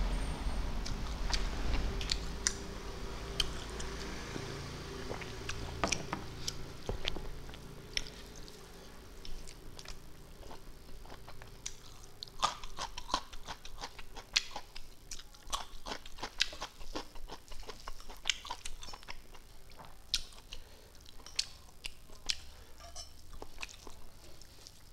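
Close-miked eating: chewing, lip smacks and wet mouth clicks as rice and meat are eaten by hand. The sounds come irregularly and often, with no speech.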